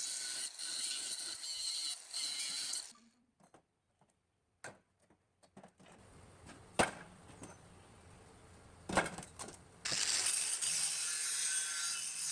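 Workshop tool noise: a steady hissing noise for the first three seconds or so, a quieter stretch with a few sharp clicks and knocks, then the hissing noise again near the end.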